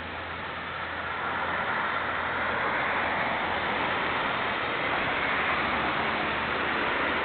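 Nagara 500 series diesel railcar running past: a low engine drone, then a rushing wheel-and-rail noise that grows louder from about a second in and holds steady.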